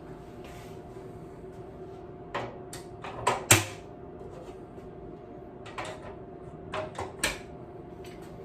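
Honey frames knocking and clunking against the basket of a honey extractor as they are lifted out, turned around and set back in: two clusters of short knocks, the loudest about three and a half seconds in.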